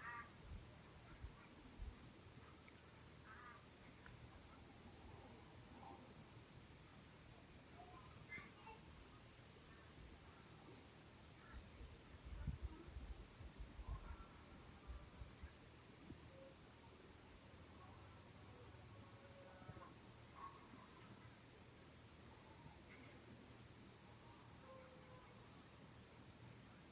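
Evening insect chorus: a steady, high-pitched trill that never lets up, with faint scattered bird calls over it.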